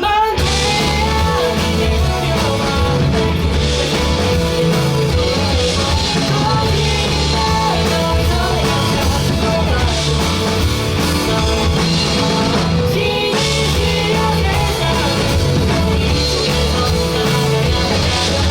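Live band playing a rock instrumental passage: guitar over drum kit and bass, steady and loud, with the full band coming in at the start.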